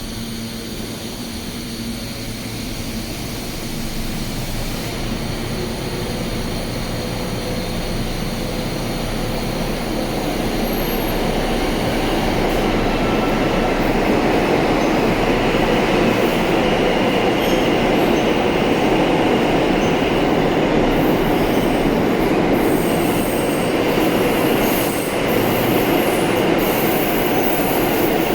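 R160-series New York City subway train running through the station: its rumble grows louder over the first dozen seconds, then holds steady, with wheel squeal and clicking rail joints in the later part.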